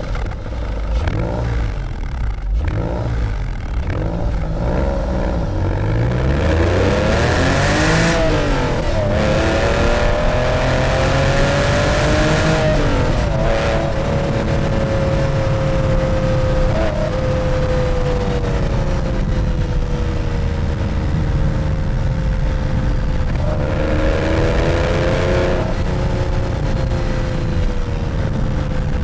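Porsche 996 911's flat-six engine and exhaust, with a BMC panel filter, IPD intake plenum and "Gundo hack" exhaust, heard from inside the cabin while driving. The revs climb and drop through gear changes in the first third, then settle into a steady drone whose pitch sinks slowly, with a brief pull upward again near the end.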